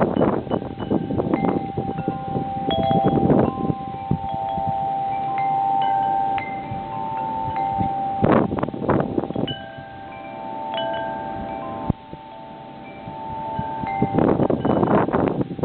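Wind chimes ringing in gusting storm wind, several long ringing notes overlapping. Loud bursts of wind noise on the microphone come at the start, about halfway through and near the end.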